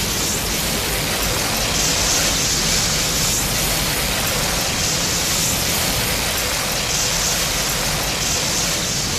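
A steady, even rushing noise, a sound effect from a Godzilla film sound collection, with no pitch or rhythm.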